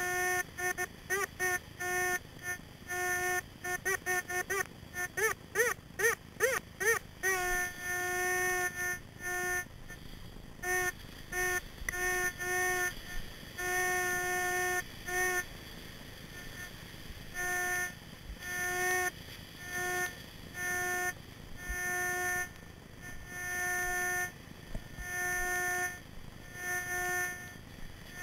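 Minelab Excalibur metal detector's audio signal: short beeps at one steady pitch, repeated many times, with a stretch of wavering tones that rise and fall a few seconds in. These are its target responses as the coil sweeps over metal in the sand.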